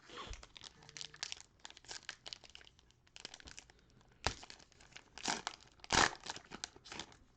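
Cellophane wrapper of a trading-card cello pack crinkling and tearing as it is opened, in irregular crackles with louder sharp crinkles about four and six seconds in.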